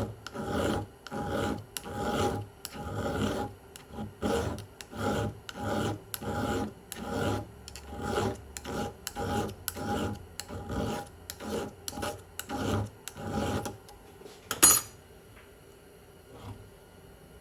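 Chainsaw chain being hand-filed in a sharpening jig: steady rasping file strokes, about two a second. They stop about fourteen seconds in, followed by a single sharp click.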